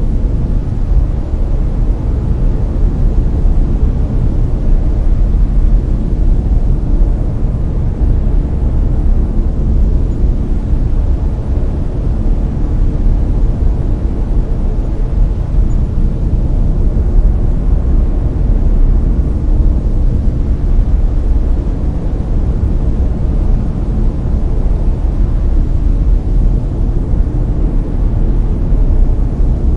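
Layered brown noise: a loud, deep, steady hiss, strongest in the bass, with no change over the whole stretch.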